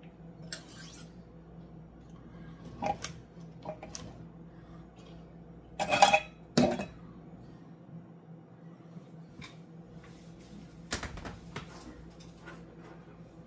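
Kitchen cookware and utensils clinking and knocking as they are handled: a handful of separate clanks, the loudest pair about six seconds in, over a steady low hum.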